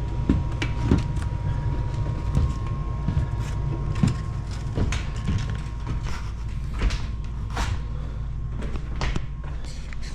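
Irregular knocks and footfalls from someone moving about and climbing down indoors, over a steady low rumble and a faint steady whine.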